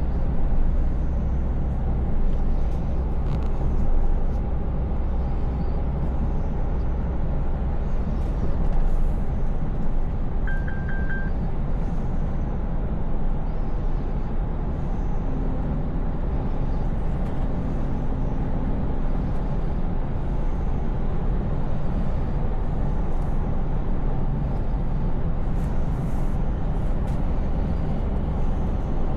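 Scania S580 truck's V8 engine running steadily at cruise with tyre and road noise. A short electronic triple beep sounds about ten seconds in.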